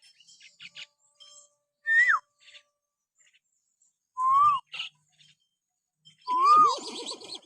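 Clear whistled notes with gaps between them: a quick falling whistle about two seconds in, then two short rising-and-falling whistles, with faint clicks in the pauses and a lower, rougher gliding sound right after the last whistle.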